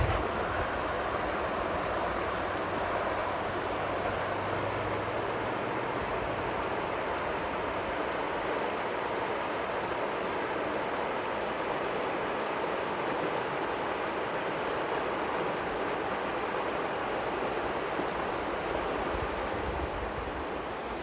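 River water rushing over rapids: a steady, unbroken rush.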